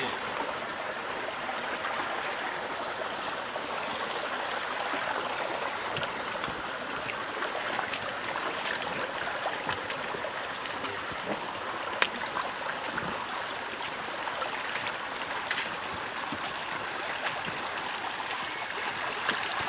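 Steady rush of a small stream flowing, with a few light clicks and one sharp click about twelve seconds in.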